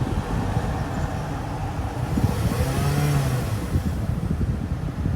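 Toyota Alphard's 2.5-litre inline-four engine revved once with a light blip of the throttle about two seconds in, its pitch rising and falling back within about two seconds, over a steady low rumble.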